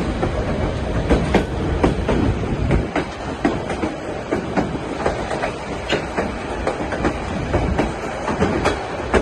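White Pass & Yukon Route narrow-gauge train rolling along the track: a steady low rumble with frequent irregular clicks and clatter of the wheels and cars.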